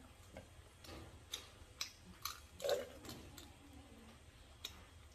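A person chewing grilled prawn meat with wet mouth clicks and lip smacks, about seven short clicks at irregular intervals.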